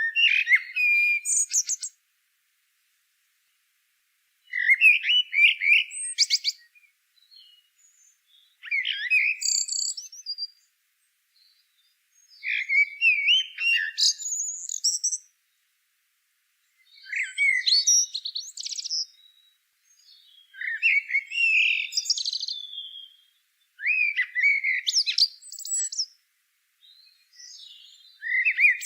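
A songbird singing: about eight short, varied warbling phrases, each two to three seconds long, separated by pauses of silence.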